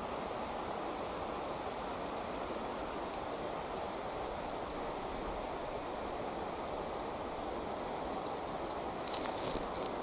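Creek water flowing, a steady rushing babble. About nine seconds in comes a brief high crackle or rustle, and a few faint short high chirps sound around the middle.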